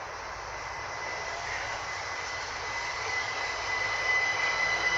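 Class 375 Electrostar electric multiple unit approaching along the platform: a rushing rumble that grows steadily louder, with a steady high whine strengthening near the end.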